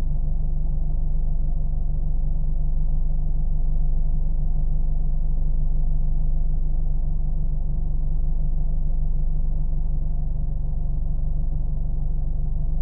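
Steady, low car engine drone that stays even and unchanging throughout.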